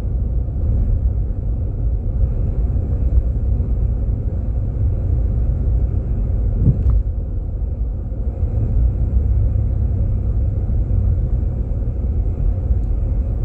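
Steady low road and engine rumble inside a Jeep Grand Cherokee's cabin, its tyres running on a snowy road. A single short click about seven seconds in.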